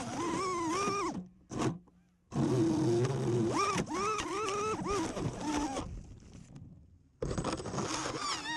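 FPV freestyle quadcopter's motors and propellers whining, the pitch rising and falling quickly as the throttle is punched and let off. The sound cuts out briefly several times.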